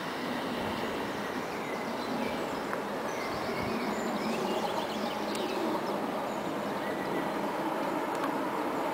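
Railway noise as a Class 350 electric unit pulls out nearby and a Class 220 Voyager diesel unit approaches, the rumble growing slowly louder. Birds chirp briefly around the middle.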